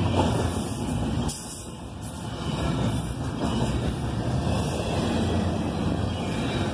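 Double-stack intermodal container train's cars rolling past, steel wheels running on the rails in a steady rumble that dips briefly about a second in.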